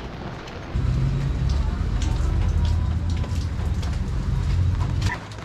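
Rain falling on a city street, with scattered drop hits. From about a second in until near the end a loud low rumble sits under it, then drops away.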